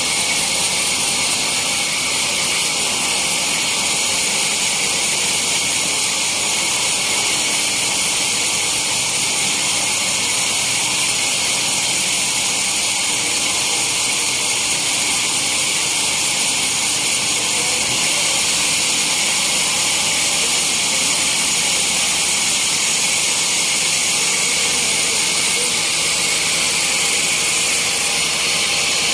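Sawmill saw running steadily with a loud, even high hiss and no pauses; its low hum shifts slightly about two-thirds of the way through.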